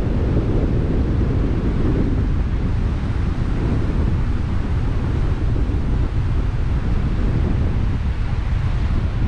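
Strong tropical-storm wind buffeting the microphone in a steady low rumble, with surf breaking at the beach beneath it.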